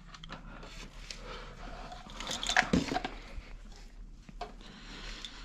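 Handling noise: scattered clicks and rustling, with a sharper clatter about two and a half seconds in. No motorcycle engine is running.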